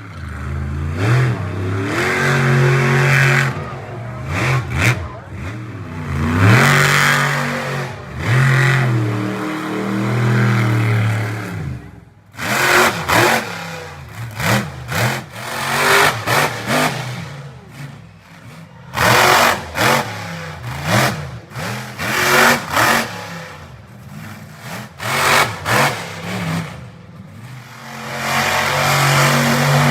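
Monster truck engine revving hard, its pitch climbing and falling through repeated runs for about twelve seconds, then a string of short, sharp throttle bursts with brief drops in between, and a longer rev near the end.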